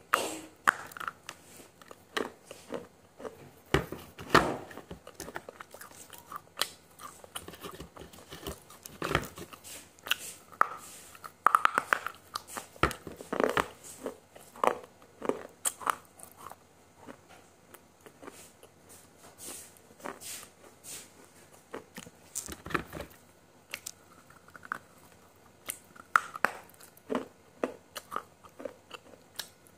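Close-miked eating of spicy noodles: chewing with many short, sharp, irregular wet mouth clicks throughout.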